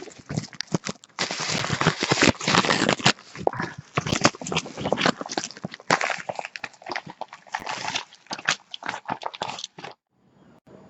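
Parcel packaging being torn and crinkled open by hand: irregular rustling and crackling that stops about a second before the end.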